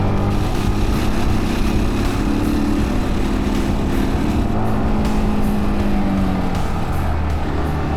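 Dirt bike engine running under way, its pitch rising and falling a little with the throttle and dropping about six and a half seconds in, over road and wind noise.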